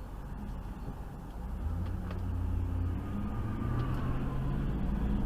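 A car's engine and road noise heard from inside a moving vehicle, a low steady rumble that grows louder about a second and a half in.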